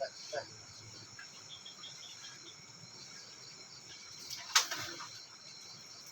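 Insects chirping steadily in a continuous high chorus, with a sharp click about four and a half seconds in and two small knocks at the very start.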